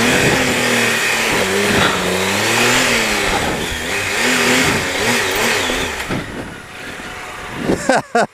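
Triumph Explorer 1215cc three-cylinder engine held on the throttle while the motorcycle ploughs through deep water, its pitch rising and falling under the rush of splashing water. The sound drops away about six seconds in.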